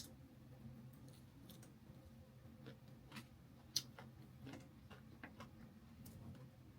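Quiet eating sounds of chicken legs being eaten: irregular soft clicks and smacks of chewing, with one sharper click a little under four seconds in.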